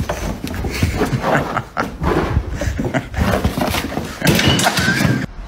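A dog growling in rough play, in uneven bursts, with a louder stretch near the end.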